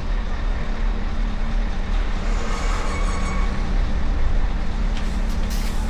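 Steady low rumble of heavy vehicle engines running, with a constant hum; a brief high hiss about five seconds in.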